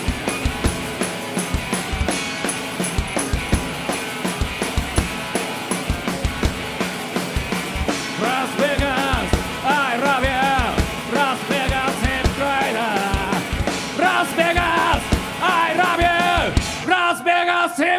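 Rock band playing live, a punk-rock song with a steady drum kit beat; about eight seconds in, a wavering lead line comes in over the band.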